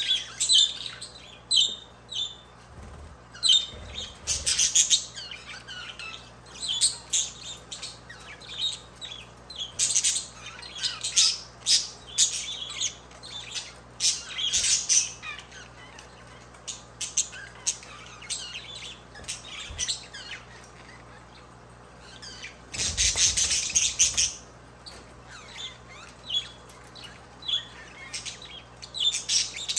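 Pet budgerigars chirping and chattering in quick, repeated high calls, with a louder, noisy rustling burst about three-quarters of the way through.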